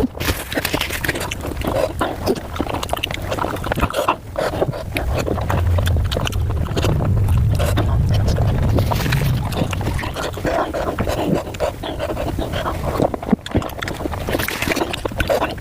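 Chewing and mouth sounds of someone eating pork momos, played back at five times speed: a dense, unbroken run of smacks and clicks over a low rumble.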